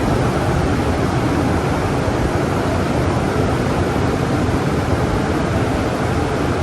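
Daifuku TWINFECT FORCE gantry car wash machine at work on a car: a loud, steady rushing noise.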